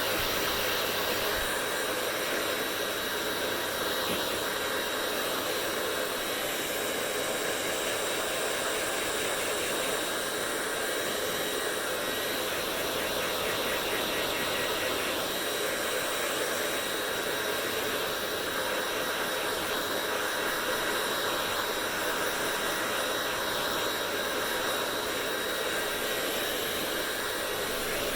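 Hair dryer running steadily: an even blowing hiss with a thin, constant high whine.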